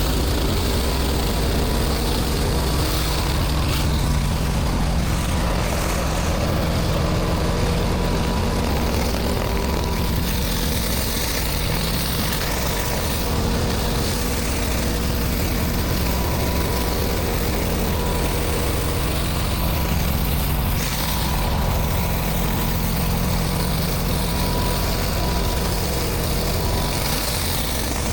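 Pressure washer's gas engine running steadily under load, with a constant hiss over its low hum.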